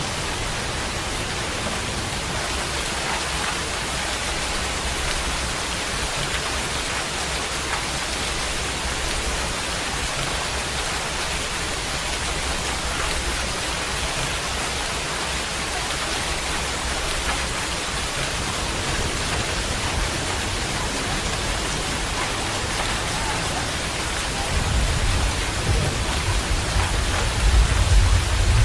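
Steady rain falling, an even hiss of drops. From about three-quarters of the way in, a deep rumble of thunder builds and grows louder.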